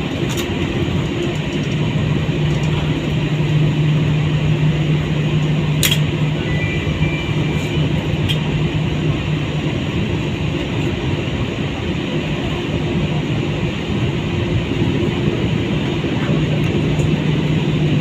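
Steady airliner cabin hum after landing, a constant noise with a low droning tone underneath. A single sharp click comes about six seconds in.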